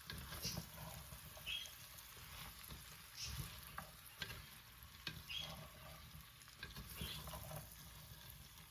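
Diced onion, garlic and carrot sizzling softly in olive oil in a clay tagine, with a utensil stirring and scraping through them in short irregular strokes.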